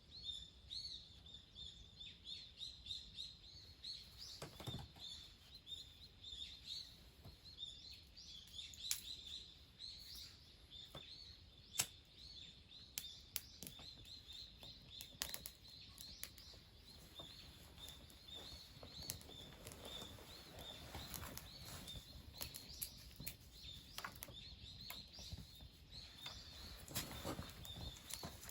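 Faint, repeated bird chirps, about two a second, with scattered sharp clicks and a few soft knocks.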